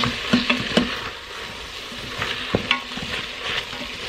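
Beef strips and sliced bell peppers sizzling in the stainless steel inner pot of an Instant Pot on sauté mode, stirred with a wooden spoon that knocks and scrapes against the pot again and again.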